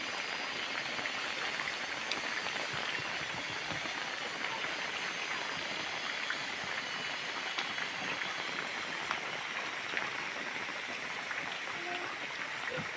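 Steady rain falling, an even hiss scattered with small drop ticks.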